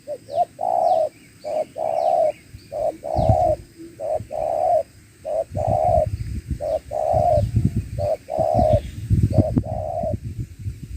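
Spotted dove (tekukur) cooing: a repeated phrase of a short note followed by a longer coo, about once every second and a bit. Low rumbling runs under it from about three seconds in, and faint chirps of small birds are heard above.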